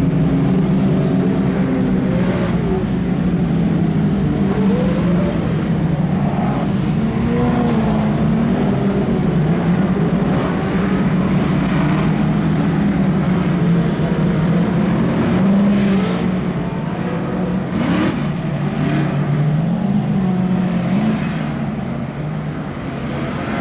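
Short-course off-road race vehicles running on track, several engines revving up and down together as they accelerate and back off through the course.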